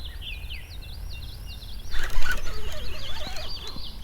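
Songbirds chirping continuously, with quick repeated high notes that sweep downward. About two seconds in, a louder burst of rustling, clattering noise lasts a second or so over the birdsong.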